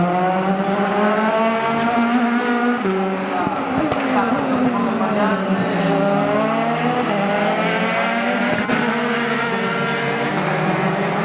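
Several Dallara F312 Formula 3 race cars running on track, their engines overlapping, each one's pitch rising and falling as it passes.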